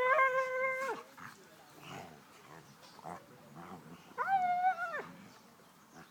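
Sled dog giving two drawn-out, steady-pitched whining calls of about a second each, the first right at the start and a slightly higher one about four seconds in, with faint short noises between them.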